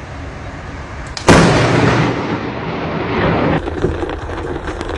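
A close thunderclap: a sudden sharp crack about a second in, then a rolling rumble that slowly fades.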